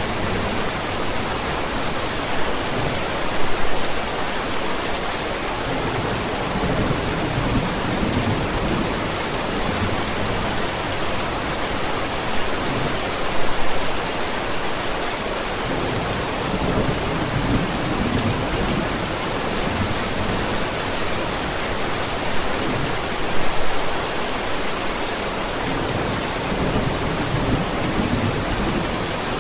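Steady heavy rain, with a louder swell of thunder three times, about ten seconds apart.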